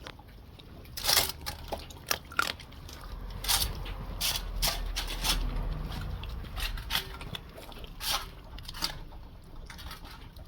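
Dogs eating raw meat, irregular smacking, chewing and licking sounds.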